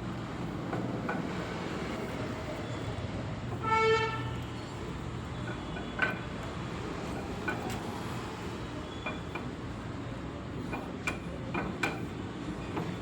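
A steady low rumble with one short vehicle-horn honk about four seconds in. A few sharp metallic clicks and taps come later on.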